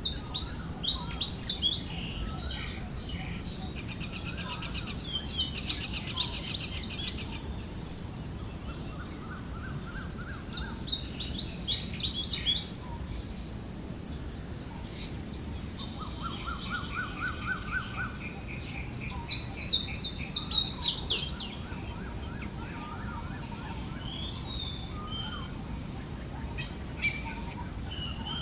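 Several small birds chirping and trilling in short bursts, with a few rapid trills about ten and sixteen seconds in. Under them runs a steady high-pitched hiss and a low breeze-like rumble.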